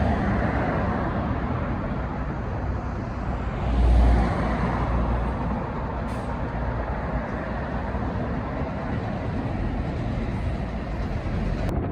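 Steady road traffic noise with a low rumble, swelling louder briefly about four seconds in.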